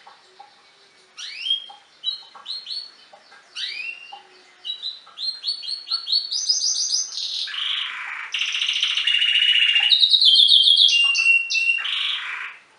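Domestic canary singing one long song. It starts about a second in with rising whistled sweeps, runs into fast repeated trills, and grows into loud, rapid rolling trills in the second half before breaking off near the end.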